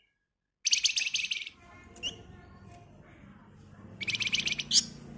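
A flamboyan (wergan Jawa) songbird singing: a dense, rapid trill about a second in, a short chirp, then a second rapid trill near the end capped by a sharp rising note.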